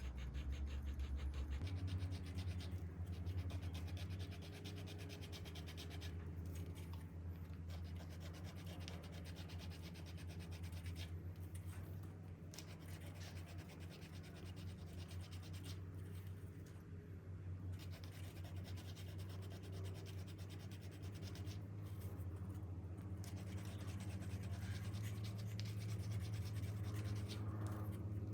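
Continuous rubbing and scratching on a rusted awl as it is cleaned, over a steady low hum.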